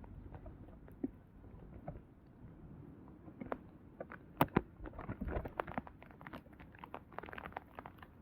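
Irregular patter of raindrops striking close to the microphone in a downpour, sparse at first and growing denser about halfway through.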